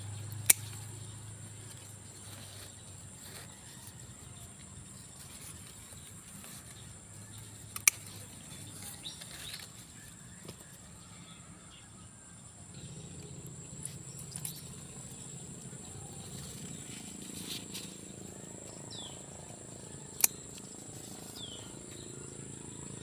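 Three sharp snaps of eggplant stems being cut while the fruit is picked: about half a second in, about eight seconds in, and about twenty seconds in. Under them runs a steady high-pitched whine, with a few faint bird chirps near the end.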